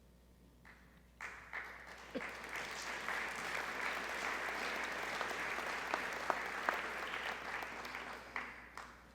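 Audience applauding, starting about a second in, swelling to a steady clapping, and dying away near the end.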